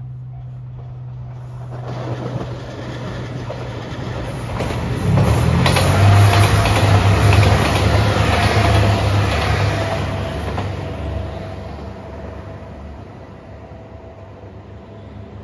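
JR 2700 series diesel multiple unit passing close by: engine rumble and wheel noise build from about two seconds in, are loudest midway, then fade away.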